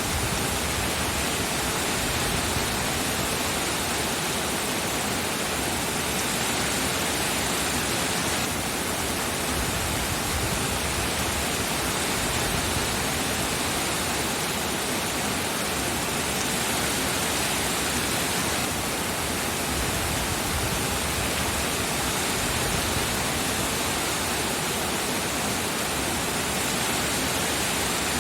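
Steady heavy rain: a dense, even hiss of falling rain with no separate drops standing out.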